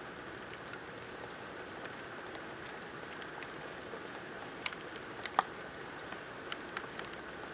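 Steady rain falling, with scattered sharp ticks of drops landing close by; the loudest come about five seconds in.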